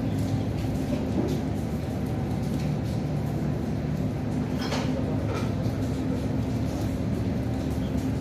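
Light rain falling over a steady low rumble with a constant hum, and a few faint drips about halfway through.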